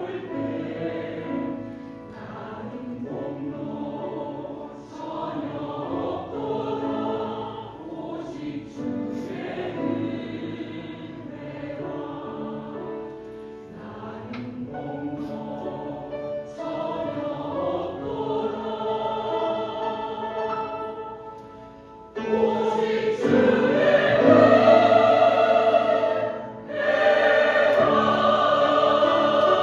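Choir singing a Christian praise song, becoming clearly louder about 22 seconds in.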